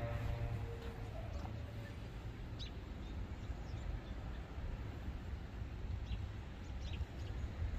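A few short, high bird chirps, spaced out, over a steady low rumble.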